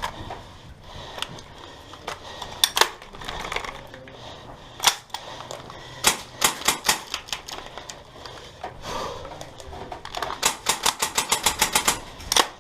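Airsoft guns firing: scattered single shots and short bursts, then a rapid full-auto string of about eight shots a second near the end.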